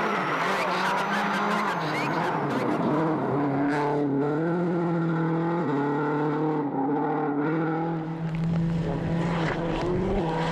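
A 2007 World Rally Car's turbocharged four-cylinder engine pulling hard. Its pitch drops and climbs again several times as it changes gear.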